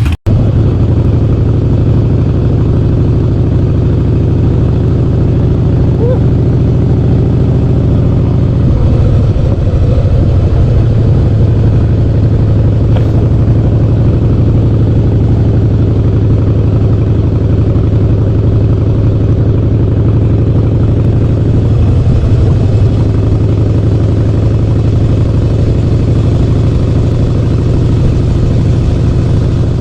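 Harley-Davidson Softail Standard's V-twin running through a Vance & Hines Big Radius chrome exhaust while the bike is ridden: a loud, deep, steady exhaust note, shifting in pitch about nine seconds in and again a little past twenty seconds.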